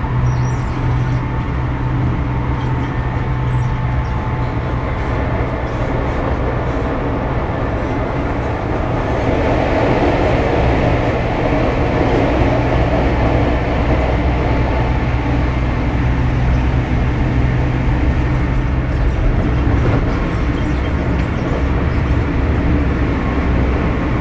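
Tokyu 6000 series electric train running between stations, heard from inside the car: steady wheel and rail noise with a low, steady hum underneath, swelling slightly about ten seconds in.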